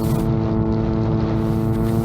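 VTOL drone's propellers droning at a steady, unchanging pitch, with strong wind rumbling on the microphone.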